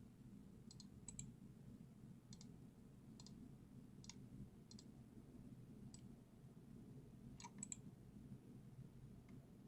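Faint clicking of a computer mouse: about ten scattered clicks, several in quick pairs, over near silence.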